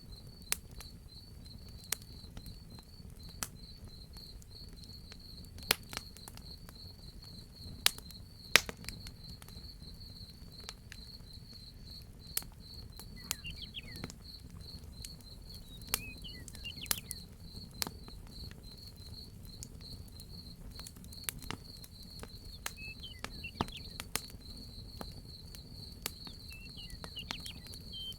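Crickets chirping in a steady, fast high trill while a wood fire crackles, with scattered sharp pops that are the loudest sounds, over a low rumble. A few faint, short bird chirps come in during the second half.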